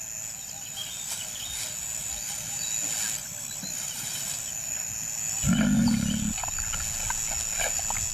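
A lion gives one short, deep grunt about five and a half seconds in, over a steady outdoor background with a thin, high insect drone.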